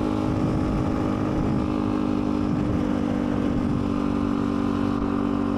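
Small pit bike engine running at a steady speed, its pitch holding level without revving.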